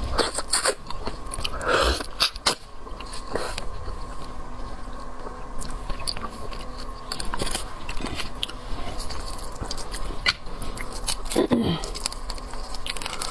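Close-up mukbang eating sounds: biting and chewing shellfish, with many sharp crunchy clicks throughout.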